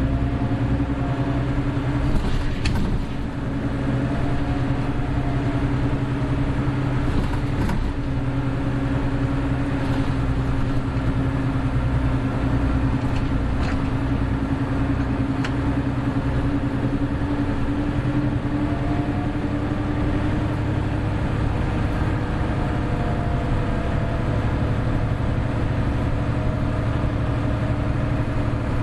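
Hino Blue Ribbon City Hybrid diesel-hybrid bus under way, its engine and drive giving a steady hum with little change in pitch. A couple of short knocks come a few seconds in.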